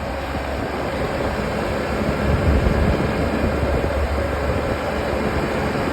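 Motorcycle underway at road speed: steady engine and road noise, with wind rumbling on the microphone.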